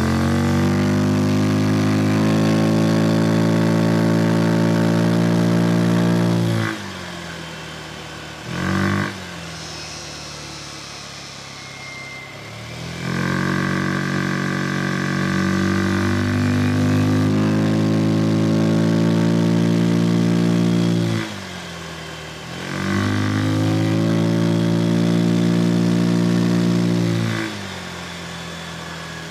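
Piaggio Vespa Sprint 150 scooter's single-cylinder four-stroke engine under riding throttle: three long pulls, each holding a near-steady, slightly rising pitch through the CVT, then dropping back to idle, with a short throttle blip between the first two.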